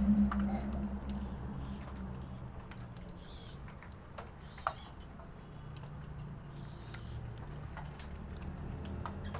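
Scattered light ticks and taps over a low steady hum, with two sharper clicks about three and a half and four and a half seconds in.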